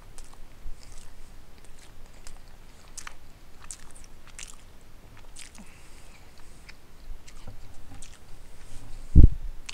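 Close-miked chewing of pot roast with potatoes and carrots: many small wet mouth clicks and smacks. One short, dull thump near the end is the loudest sound.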